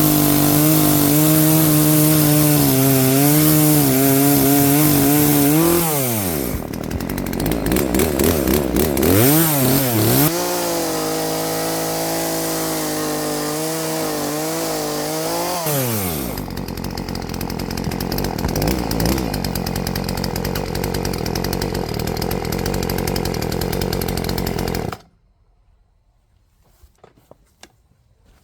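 Poulan P3416 34cc two-stroke chainsaw held at full throttle through two stretches of cutting wood, about six and five seconds long. Between them it drops to idle with a couple of quick revs, and after the second it idles steadily. It holds speed under load and idles without stalling: a sign that the new Hipa carburetor is now properly adjusted. The sound stops suddenly near the end, leaving near silence with a few faint clicks.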